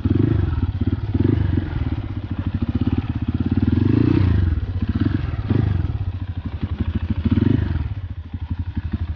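Motorcycle engine running at low speed on a rough trail, its throttle opened and eased off several times so the engine note swells and drops.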